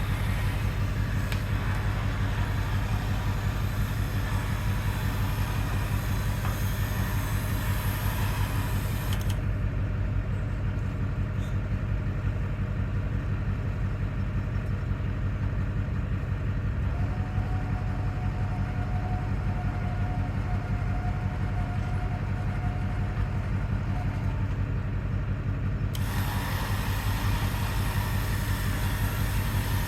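A steady, low machine drone of a running motor, level and unchanging, with the higher hiss dropping away for a stretch in the middle.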